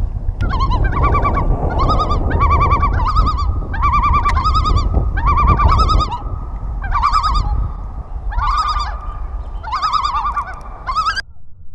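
A bird calling over and over: about nine short, rapidly warbling calls, each about half a second long and repeating every second or so. Under them is low wind rumble on the microphone. Both stop abruptly near the end.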